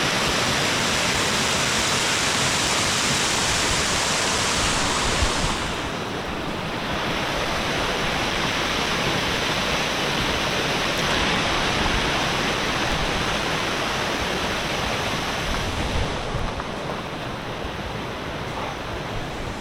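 Waterfall rushing, a loud, steady roar of falling water; the highest hiss drops away about five seconds in.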